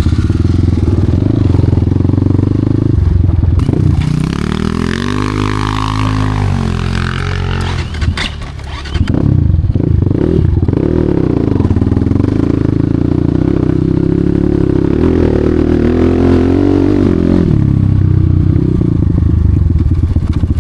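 Enduro motorcycle engine running under load, revving up and down. The revs sag briefly about eight seconds in, pick up again, then hold for several seconds before easing off near the end, with some clattering.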